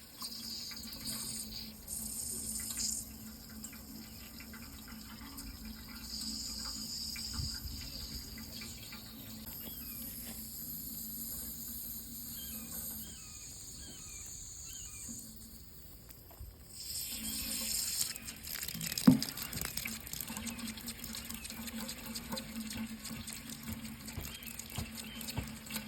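Water running from a tap into a sink, a steady splashing rush that weakens for a couple of seconds past the middle and then picks up again. There is one sharp knock a few seconds later.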